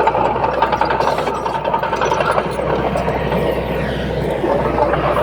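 Heavy earthmoving machinery running, a steady low engine hum with clatter over it.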